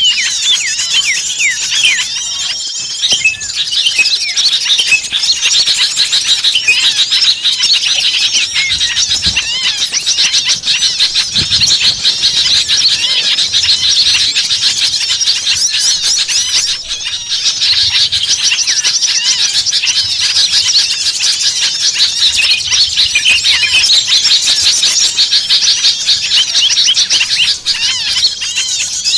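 A dense, noisy chorus of many small songbirds calling over one another: rapid high chirps and squeaky rising and falling calls with no pause. This is the agitated 'noisy small birds' chorus used as a lure to draw other small birds in.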